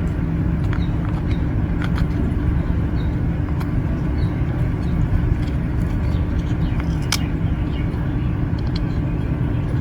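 A steady low rumble with a constant hum, like a motor running nearby, under a few scattered light clicks as the small plastic gear wheels of the dismantled A/C servo actuator are turned by hand. The clearest click comes about 7 seconds in.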